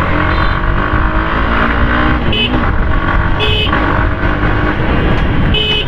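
Hero Xtreme 160R's single-cylinder 160cc engine accelerating hard, its pitch climbing, dropping back at a couple of gear changes, then climbing again, over heavy wind rumble from riding at speed.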